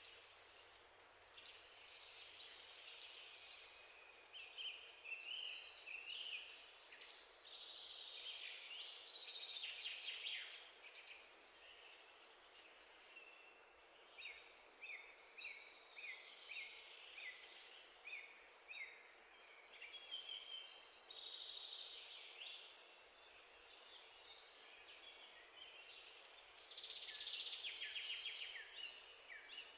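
Faint songbird chirping and trilling: many short calls overlapping, with a run of evenly spaced repeated chirps midway through.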